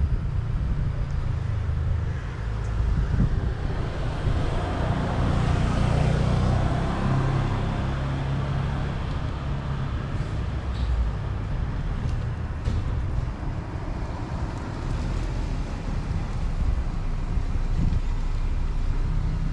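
Road traffic noise: a steady low rumble that swells as a vehicle passes a few seconds in, then eases.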